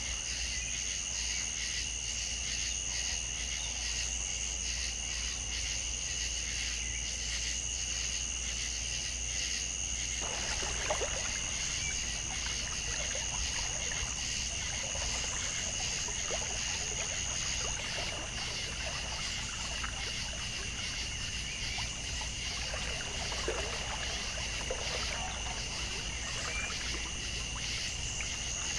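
A steady, high-pitched pulsing chorus of insects such as crickets, with a low steady rumble underneath. From about ten seconds in, water trickles and splashes irregularly. The higher of two insect tones drops out a little past halfway and returns near the end.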